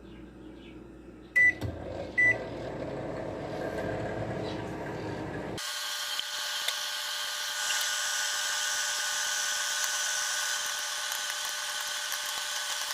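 Microwave oven keypad beeping twice as it is set, then the oven running with a steady hum. About five and a half seconds in, the hum gives way abruptly to a steady hiss.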